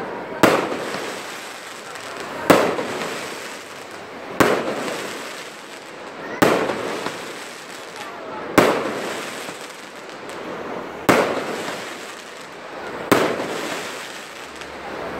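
Aerial firework shells bursting: seven sharp bangs about two seconds apart, each followed by a long fading echo.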